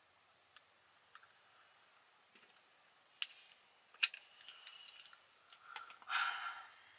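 Quiet small clicks and taps of makeup items being handled, with a sharp click about four seconds in and a short rustle near the end.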